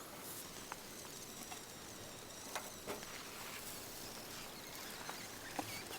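Faint outdoor ambience with a handful of soft clicks and ticks, the sharpest one near the end.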